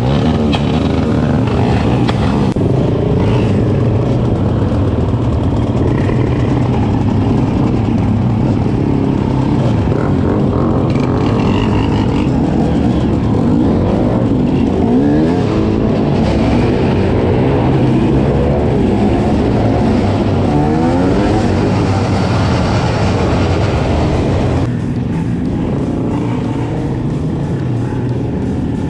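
Several off-road motorcycle and quad engines running and revving, their pitch rising and falling repeatedly in the middle stretch. About three-quarters of the way through the sound turns duller and a little quieter.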